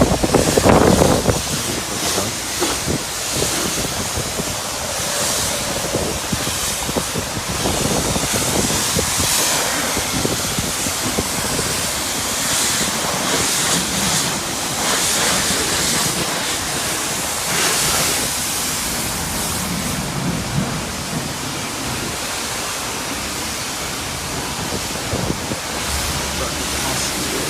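High-pressure wand at a self-service car wash spraying clean rinse water over a car: a steady hiss of spray that swells and fades as the jet sweeps across the panels.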